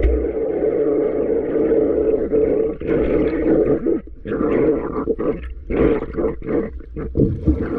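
Muffled rushing of sea water around the microphone as a swimmer ducks under and comes back up; the steady rush breaks into short, choppy splashes about four seconds in.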